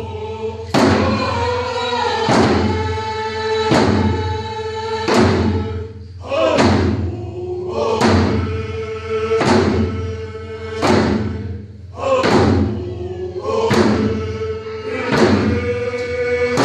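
Group of voices singing a Pacific Northwest tribal song together over a drum struck in a slow, even beat, about one stroke every second and a half.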